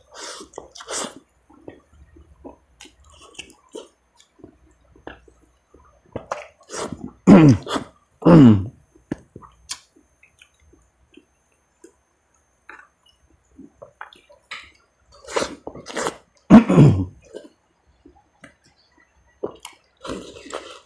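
A man chewing and eating with his hands, close to the microphone: wet chewing and lip-smacking clicks on beef ribs and rice. Three short, louder low vocal sounds, each falling in pitch, come about seven seconds in, near eight and a half seconds and near seventeen seconds.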